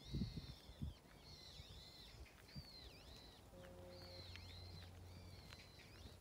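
A bird calling over and over in short, high chirps with dipping pitch, roughly one a second. A few soft low thumps come in the first second, and a faint steady low hum joins about three and a half seconds in.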